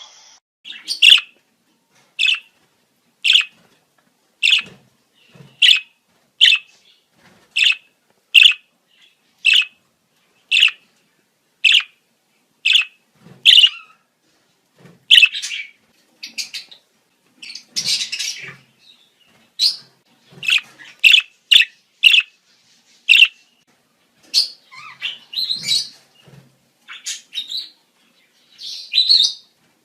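Budgerigars calling in the breeding season: sharp chirps repeated about once a second, turning into a busier jumble of chirps and chatter in the second half.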